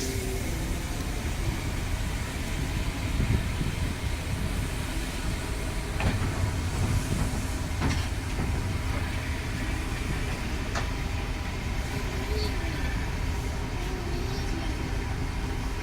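Class 31 diesel locomotive running steadily with a constant hum, with a few sharp clicks around the middle and faint distant voices.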